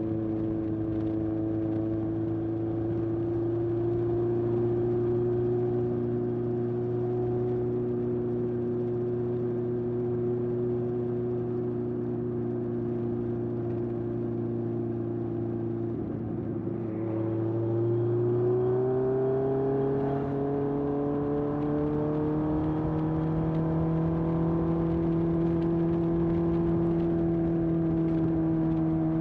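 Honda CB750F's air-cooled inline four, breathing through a vintage Yoshimura muffler, running steadily under way. Just past the middle the note dips briefly, then climbs over a few seconds and holds at a higher pitch.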